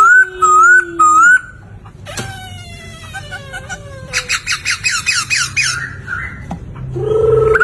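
Poksay (laughingthrush) singing a varied series of loud whistled phrases: repeated rising whistles at the start, then gliding and trilled notes, a run of quick high notes in the middle, and a louder, harsher rising phrase near the end.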